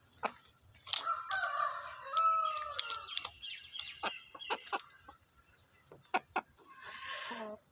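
Kampong (village) rooster crowing, one long crow of about two and a half seconds, then a few short sharp sounds and a shorter hoarse call near the end.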